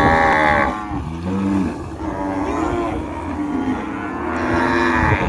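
Cattle mooing: long, drawn-out calls at different pitches that overlap one another.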